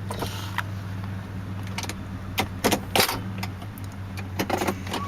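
A 1993 Lincoln Town Car's 4.6-litre V8 idling steadily, with a series of sharp clicks and knocks over it, several close together in the middle and two more near the end.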